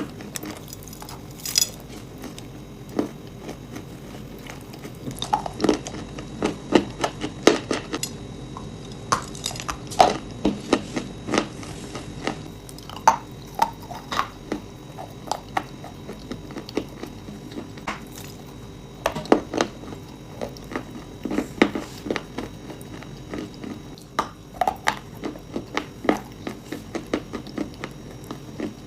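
Close-miked biting and chewing of hard, brittle food: many sharp crunches come in clusters with short lulls between.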